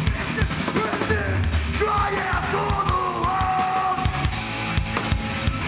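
Live hardcore band playing loud heavy music with drums, the singer yelling over it and holding one long shouted note through the middle.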